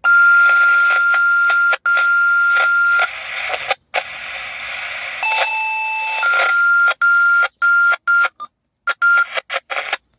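Dispatch alert tones over a radio scanner: a long steady tone for about three seconds, then a two-note tone, then a string of short beeps at the first pitch, over radio hiss broken by squelch clicks.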